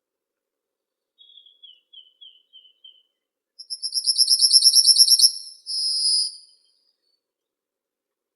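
Songbird singing: a soft run of about six short falling chirps, then a loud, fast trill of about ten notes a second ending in a short buzzy note.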